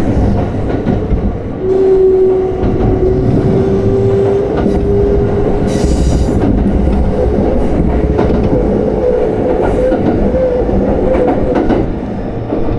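Electric train running on the rails, heard from inside the carriage: a steady rumble with scattered clicks from the wheels. About two seconds in, a whine begins and slowly rises in pitch.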